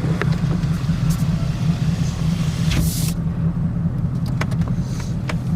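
Steady low drone of a car's engine and road noise heard from inside the cabin while rolling slowly, with a few light clicks and a brief hiss about three seconds in.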